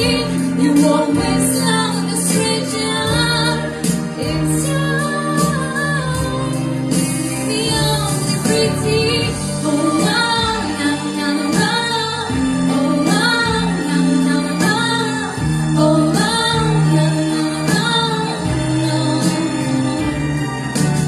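A woman singing long, wavering held notes over steady instrumental backing in a slow pop ballad.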